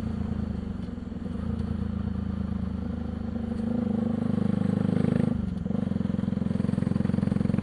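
Bajaj Pulsar 200NS single-cylinder engine on the move, running through an aftermarket underbelly exhaust with no dB killer, so it is loud. The engine note grows louder about four seconds in, drops out briefly just after five seconds, then carries on steadily.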